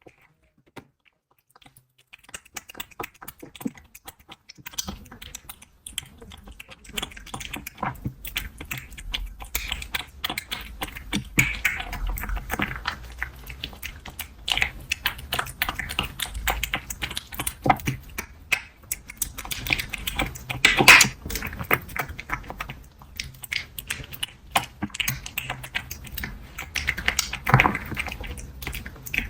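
A cat's mouth sounds close to the microphone: rapid, irregular clicks and crunches. They start about two seconds in and grow denser from about five seconds.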